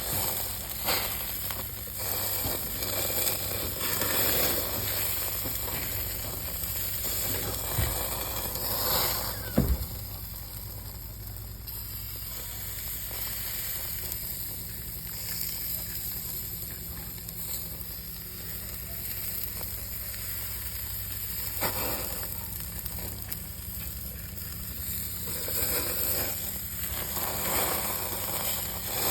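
Chicken hearts sizzling on a barbecue grill: a steady hiss, broken by a few short knocks about eight and ten seconds in and again about twenty-two seconds in.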